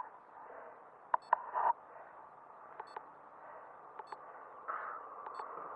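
Faint hiss on a narrow-band voice-communication link between riders, broken by a few sharp clicks and short beeps.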